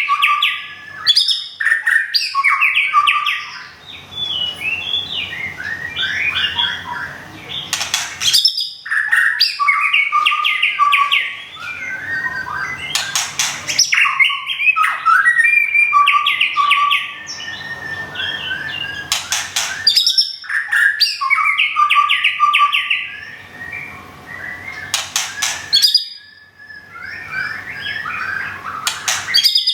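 White-rumped shama singing: a long run of varied, fluty whistled phrases, broken every few seconds by short harsh rattles.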